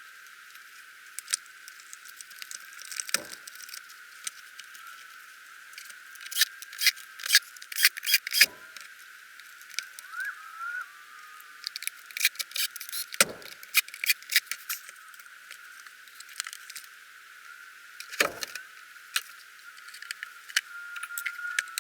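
Irregular clicks and clinks of small parts and tools being handled, with four duller knocks spaced a few seconds apart.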